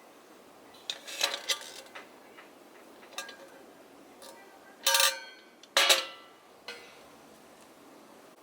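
Metal camping kettle being handled: a few metallic clinks and clanks with brief ringing, the loudest two about five and six seconds in.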